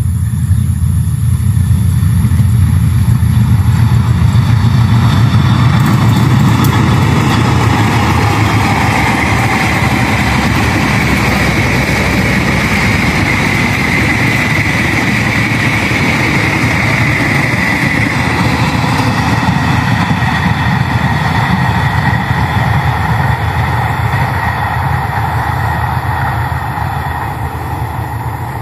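Dharmawangsa passenger train, behind a CC201 diesel-electric locomotive, passing close by: a loud steady rumble of wheels on rail with a high tone over it through the middle. It is loudest a few seconds in and eases off near the end as the coaches go by.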